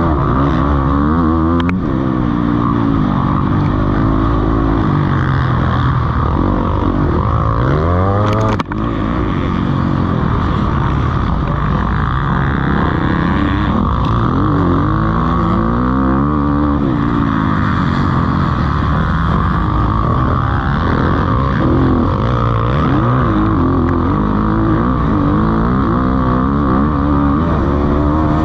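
Several motocross bikes racing past on a dirt track, their engines revving up and falling off repeatedly through gear changes and corners, with the pitches of different bikes overlapping.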